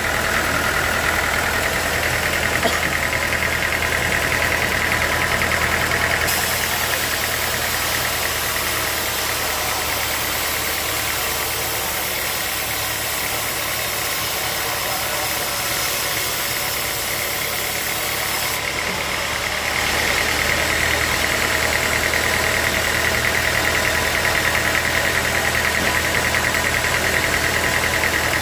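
Sawmill machinery running steadily with an engine-like hum. A harsher, high hiss joins abruptly about six seconds in and drops out again about eighteen seconds in.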